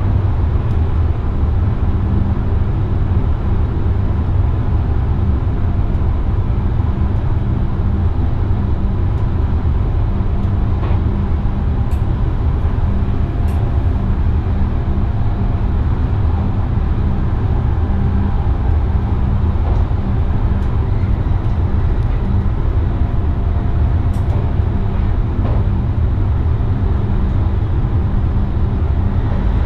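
Steady running noise inside the cab of an NS VIRM double-deck electric train: a constant low rumble from the wheels on the rails with a steady low hum, and a few faint ticks.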